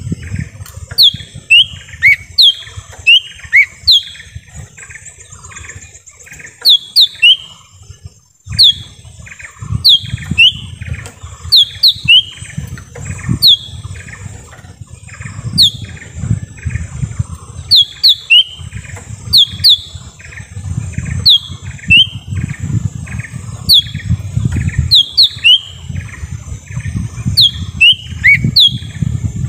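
Small leafbird (cucak ijo mini) calling: sharp, high whistled notes that sweep quickly downward, often in quick pairs and repeated every second or two, with a run of short lower chips between them. A steady high hiss and a low rumble run underneath.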